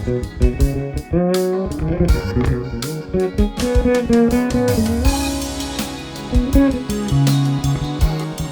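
Music: a vintage fretless Fender Precision Bass being played, low notes that slide in pitch between one another, with sharp percussive hits throughout.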